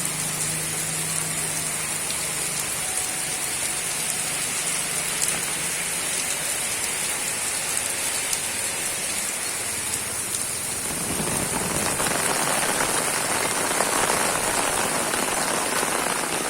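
Rain falling in a steady hiss, becoming louder and fuller about eleven seconds in.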